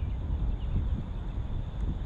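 Gusty wind buffeting the microphone: an uneven low rumble that rises and falls with the gusts.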